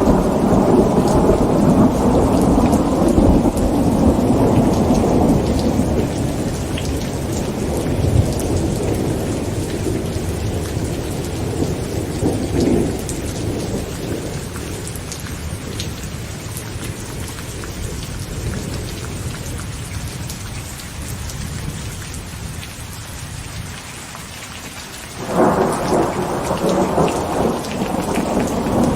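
Heavy rain on a tent with thunder. A long rumble of thunder dies away over the first half, leaving steady rain, then a sudden loud thunderclap breaks in about 25 seconds in and rolls on.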